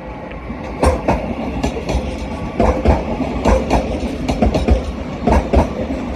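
Class 331 electric multiple unit rolling in at low speed, its wheels knocking irregularly over rail joints and pointwork, over a steady rumble.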